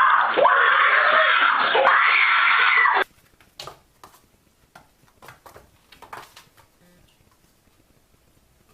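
Loud, dense animal calls that cut off abruptly about three seconds in. A few faint, short taps follow in near quiet.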